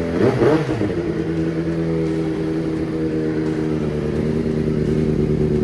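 2002 Triumph TT600's inline four-cylinder engine idling steadily just after a cold first start, the freshly fitted donor engine running on all four cylinders.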